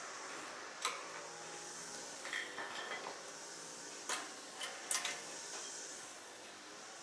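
A handful of light metallic clinks and clicks, as tools or small metal parts of a brush cutter are handled, over a steady hiss.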